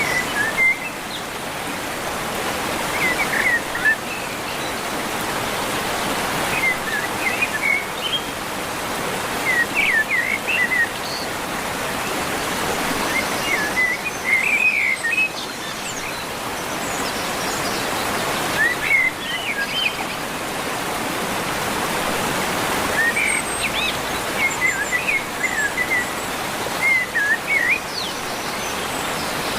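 Birds chirping and trilling in short bursts every few seconds over a steady rushing background noise, like running water.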